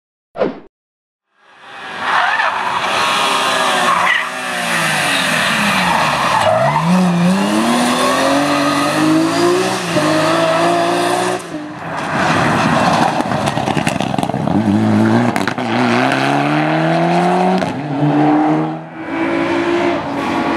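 Rally cars at racing speed on a stage, engines revving hard up and down through gear changes and lifts, with tyre squeal. The sound starts about a second and a half in and breaks off abruptly a little past halfway before another passage of hard driving.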